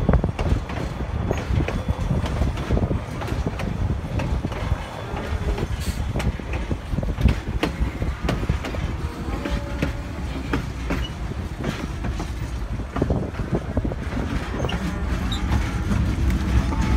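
Narrow-gauge passenger train car rolling along the track: a steady rumble with irregular clacks and knocks from the wheels on the rails.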